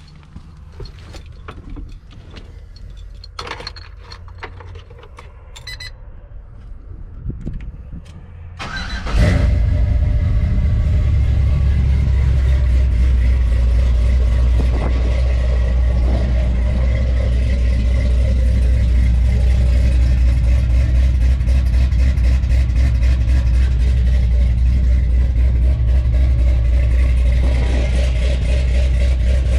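Cold start of the LS-swapped V8 in a 1995 Chevy pickup, a few clicks before it catches. The engine fires about nine seconds in and settles into a steady idle through true-dual 2.5-inch pipes with Flowmaster 40 mufflers, dumped at the axle.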